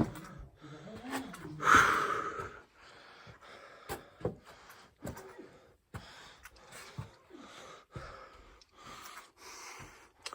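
A person breathing hard in a confined space, with a string of short heavy breaths and a louder one about two seconds in, along with scattered knocks and scuffs of movement.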